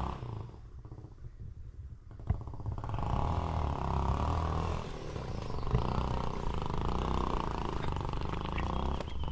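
Motorcycle engine running, getting louder about three seconds in as it picks up revs, with a single sharp knock shortly before.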